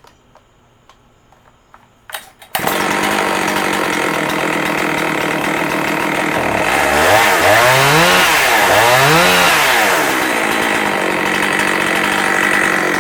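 Husqvarna 272XP two-stroke chainsaw engine starting suddenly about two and a half seconds in, after a few faint clicks. It is revved up and back down twice in the middle, then keeps running steadily.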